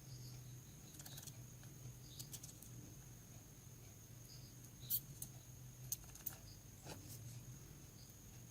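Small sharp clicks and taps of hand tools on a mobile phone's parts during disassembly, coming irregularly, the loudest about five seconds in, over a steady low hum.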